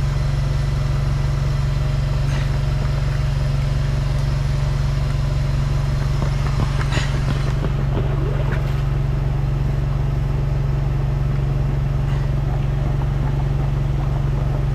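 Engine of a high-pressure drain jetting unit running steadily as a low, even hum.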